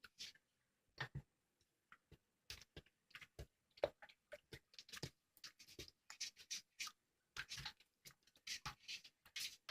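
Slime being squeezed and poked by hand, making a quick, irregular run of small crackling pops and squishes that grows busier after the first couple of seconds.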